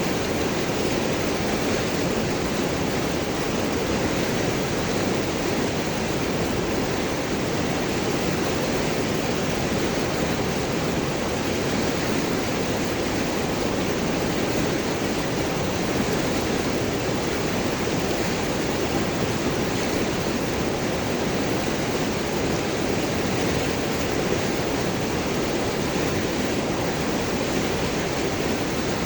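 River water flowing and gurgling over and around large rocks, a steady unbroken rush.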